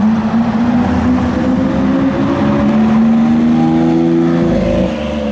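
Lamborghini Aventador S's V12 engine running at low revs, its pitch drifting slowly upward and stepping between levels, with a slight drop in loudness near the end.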